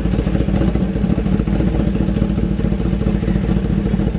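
Motorcycle engine running steadily close by, a low, even stream of rapid firing pulses.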